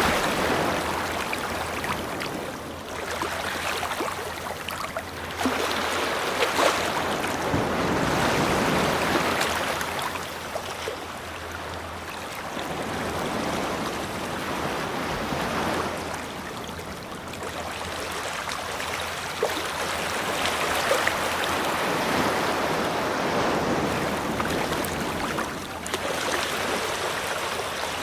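Ocean waves washing onto a beach, the surf swelling and falling back every few seconds.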